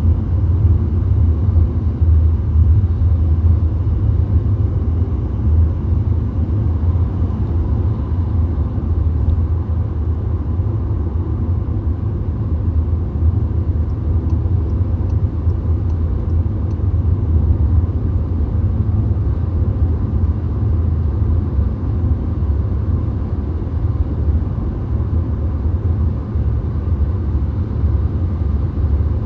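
A VW Golf driving at highway speed, heard inside the car: a steady, low road rumble that holds even throughout.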